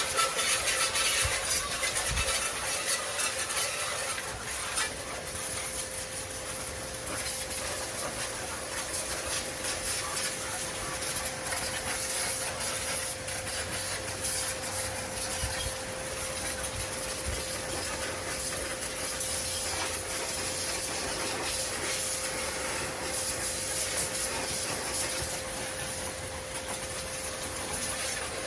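Steady hiss of a water jet spraying, with a constant motor hum underneath, as a hand tiller is washed down.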